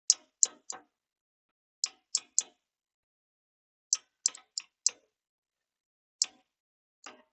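A bearing outer race being tapped into its seat: about a dozen sharp metallic taps, in quick clusters of three or four with pauses between, then two single taps near the end.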